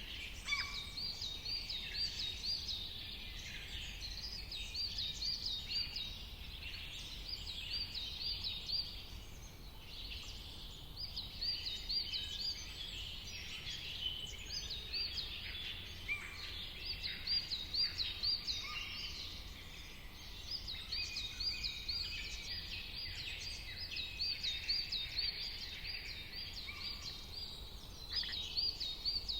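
A chorus of songbirds chirping and calling, with runs of quick, repeated high notes, over a steady low background rumble.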